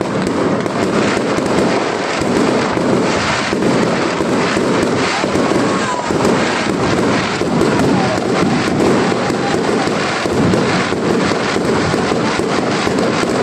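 Fireworks display going off in a dense, continuous barrage: many rapid cracks and bangs a second, one after another without a break.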